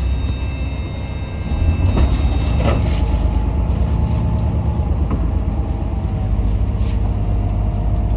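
Yutong ZK6128HG diesel city bus driving, heard from inside the cabin: a steady low engine and road rumble that grows louder about a second and a half in, with a couple of knocks and rattles shortly after.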